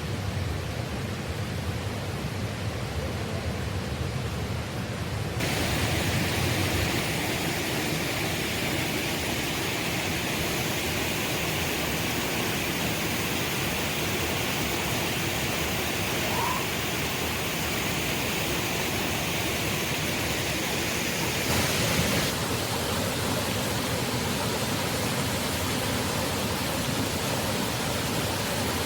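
Steady rush of flowing water, a stream or waterfall. Its sound changes abruptly about five seconds in and again around twenty-two seconds.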